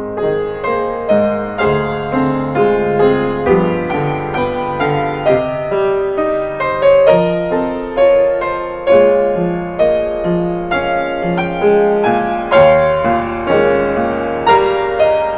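Yamaha B1 upright piano playing a gentle, flowing solo piece: a steady stream of notes with sustained bass and a melody above it.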